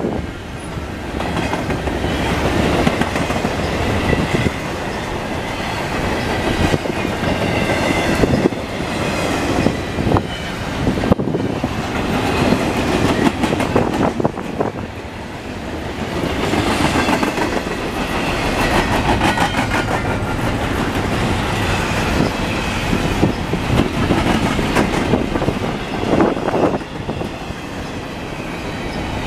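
Double-stack container well cars of a freight train rolling past at speed: a steady rumble and clatter of steel wheels on the rails, with a faint high-pitched ringing that comes and goes.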